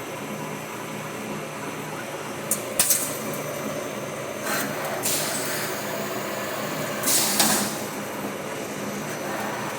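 Automatic CNC lathe running with a steady hum, broken by short hissing bursts about three, five and seven seconds in.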